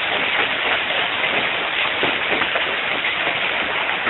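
Heavy hailstorm: quarter-sized and larger hailstones pelting down nonstop, a loud, dense clatter of countless small impacts with no rain mixed in, heard through a cell phone's microphone.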